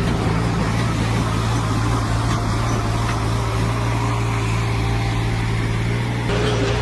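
Tractor engine running steadily at constant speed, with an abrupt change in the sound about six seconds in.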